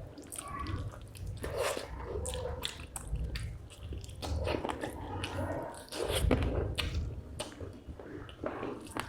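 Close-miked chewing and mouth smacks of a person eating fish curry with rice, wet clicks and smacks coming at irregular intervals.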